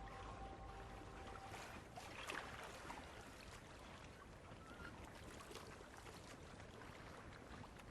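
Near silence: faint background hiss with a few soft clicks, while held music tones fade out in the first two seconds.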